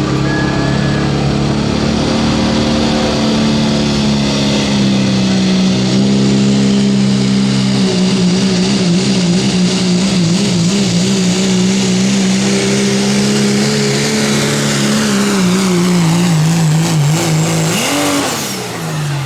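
Diesel pickup in the 2.6 turbo class running hard at full throttle on a pull, its engine note held high and steady, then wavering. Near the end the engine comes off the throttle and its pitch drops.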